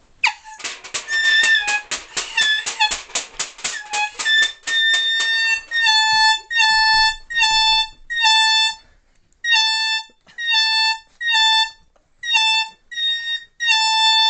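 Rapid clanging of metal pie pans slammed together, with a handheld airhorn sounding in and out. The airhorn then gives about a dozen short, loud, high blasts in quick succession.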